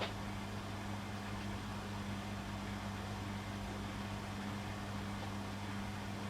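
Beko washing machine running, with a steady low electrical hum over an even whir and a single click right at the start.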